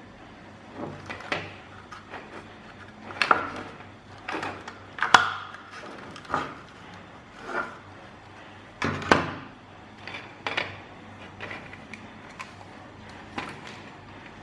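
A string of irregular sharp clicks and knocks, roughly one a second, from small hard parts being handled and set down on a work surface. The loudest come about five seconds in and again about nine seconds in.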